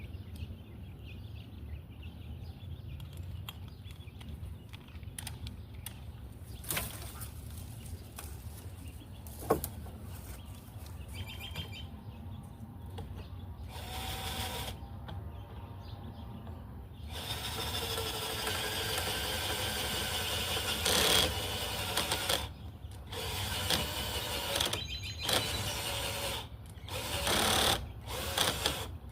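Power drill running in bursts: a short run, then one long run of several seconds, then several short ones. Before that, a few knocks, the sharpest about nine and a half seconds in.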